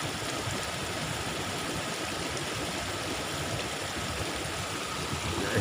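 Fast-flowing floodwater rushing in a swollen stream: a steady, even rush of water with no letup.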